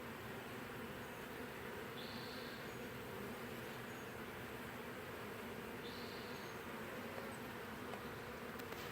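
Honeybee swarm buzzing with a steady, even hum as the bees gather at and move into the hive. Two brief high chirps sound about four seconds apart over the hum.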